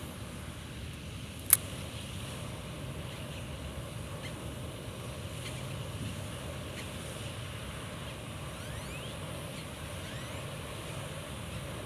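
Wind buffeting the microphone, a steady low rumble, with one sharp click about a second and a half in and a few faint rising chirps later on.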